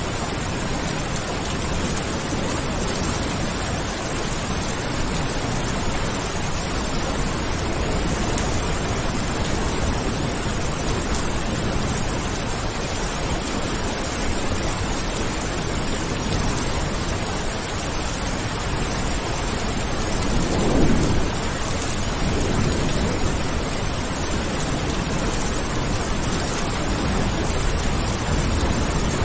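Steady rain falling, an even hiss with no breaks. About two-thirds of the way through, a brief low rumble of thunder swells up and fades.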